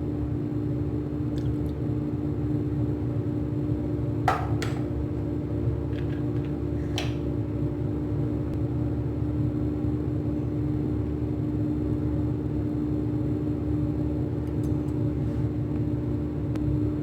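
A steady low mechanical hum with a constant tone, broken by a few sharp clicks about four and a half seconds in and again near seven seconds.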